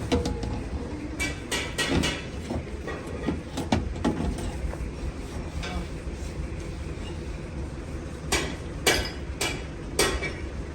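Scattered sharp knocks and clicks over a steady low rumble, with four louder knocks about half a second apart near the end.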